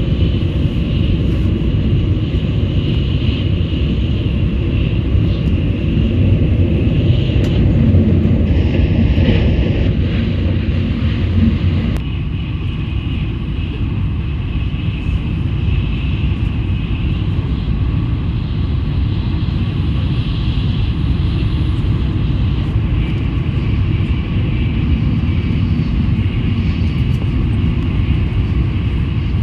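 Steady low rumble and rush of a Shinkansen high-speed train running at speed, heard from inside the passenger cabin. The upper hiss eases slightly about twelve seconds in.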